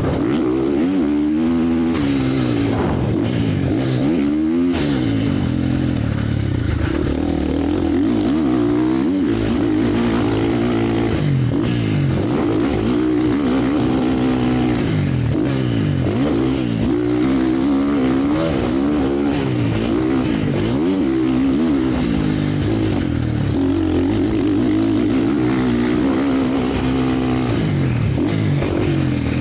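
Motocross bikes riding the track, several engines at once, each revving up and backing off over and over as they accelerate and ease off.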